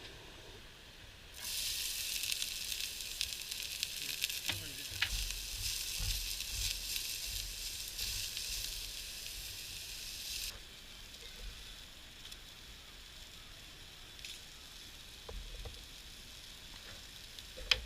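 Food frying in a hot pan. The sizzle starts suddenly about a second and a half in, stays loud until about ten seconds in, then drops to a quieter sizzle.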